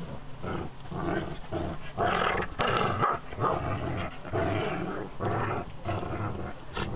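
Pet dog growling while roughhousing on a bed, a run of short growls at about two a second.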